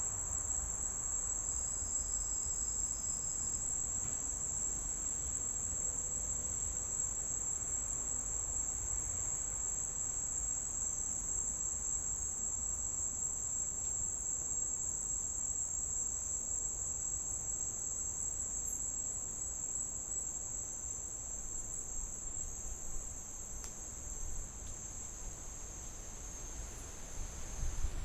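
Steady, high-pitched insect chorus, an unbroken high buzz with no pauses, over a faint low rumble.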